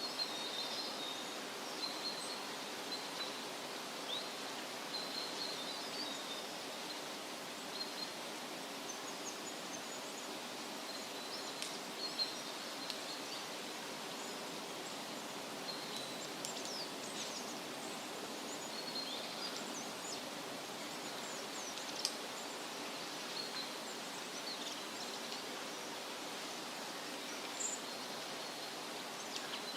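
Woodland ambience: a steady hiss of wind in the leaves with many small birds chirping and trilling throughout, in short high calls and a few sharper notes.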